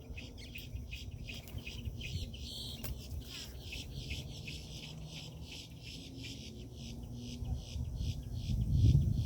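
Birds chirping and calling at a feeder in a quick run of short chirps, over a low rumble that grows louder near the end.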